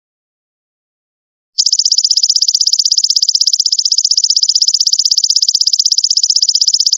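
Golden locust (belalang emas) insect call: a loud, fast, even buzzing trill of about eleven pulses a second. It starts about a second and a half in, after a silence.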